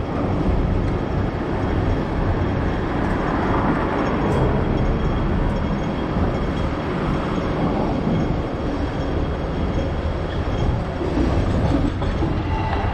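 Hong Kong double-decker electric tram running along its street track, a steady rumble and rattle of steel wheels on the rails, heard from on board.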